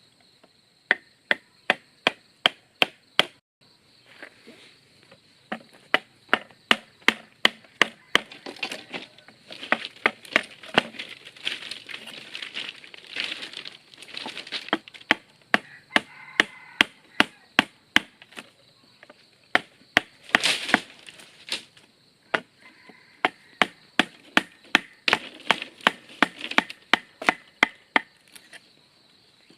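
A blade chopping into wood, with rapid, evenly spaced strikes about three a second in long runs and short pauses between them. A steady, high insect buzz runs underneath.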